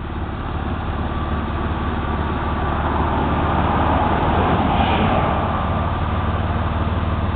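2001 Ford Escape's V6 engine idling steadily, growing somewhat louder over the first few seconds and then holding level.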